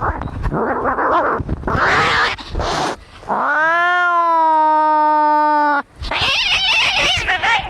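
Angry cats caterwauling: harsh, raspy cries, then a long drawn-out yowl that rises in pitch and holds steady before cutting off abruptly, followed by more harsh cries.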